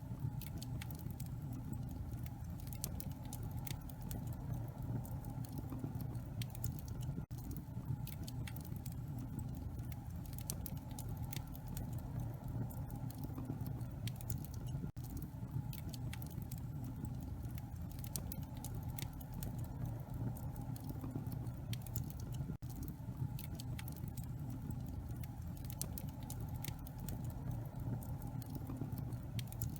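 Wood fire burning in a fireplace: a steady low rumble with frequent small, sharp crackles and pops from the burning logs. A brief dropout recurs about every seven and a half seconds.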